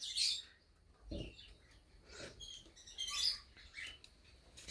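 Cockatiels giving a few short, soft chirps with quiet gaps between them.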